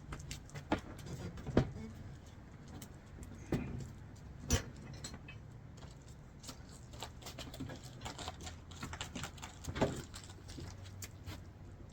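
Metal bolts and hardware clicking and clinking in irregular small knocks as they are handled and fed through the cargo box's mounting holes, with a few sharper knocks at about one and a half, four and a half and ten seconds in.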